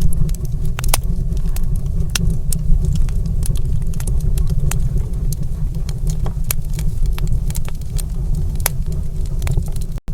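Wood fire crackling in a fireplace, with frequent irregular sharp pops and snaps over a steady low rumble. The sound drops out for an instant near the end.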